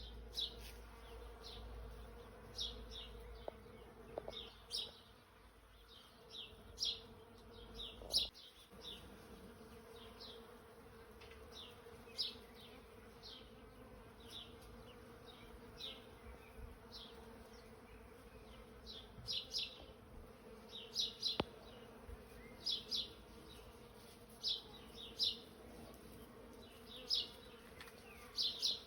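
Small birds chirping: short, high, downward notes, often in quick pairs or threes, with the busiest stretch a little after the middle. Under them runs a steady faint buzzing hum.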